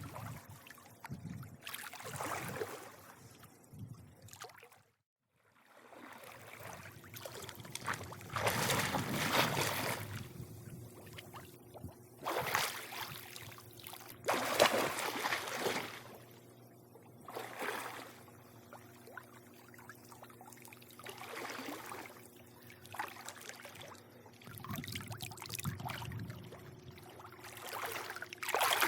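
Swimming pool water lapping and splashing in uneven surges, over a faint steady hum. The sound drops out completely for about a second, about five seconds in.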